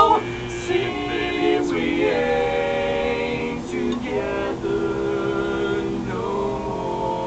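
Music: voices singing held harmony chords without clear words, the chords changing every second or two.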